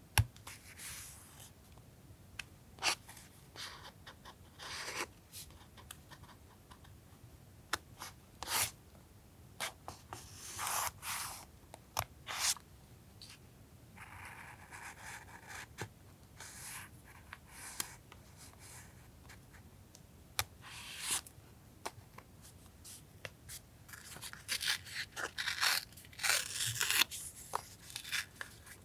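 Paper being handled for collage journaling: tearing and rustling in short irregular strokes, with scattered light taps and clicks. A denser run of crinkling comes near the end.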